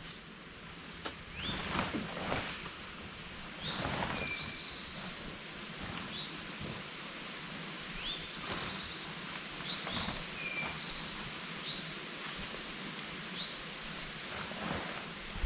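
A bird calling over steady outdoor ambience: short rising chirps repeated a dozen or so times, with a few brief rustles in the first few seconds.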